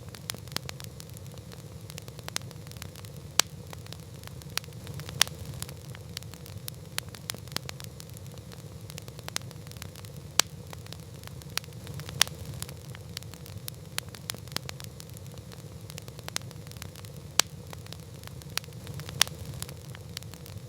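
Wood campfire crackling: irregular sharp pops and snaps, several a second with a few louder ones, over a steady low rumble of the flames.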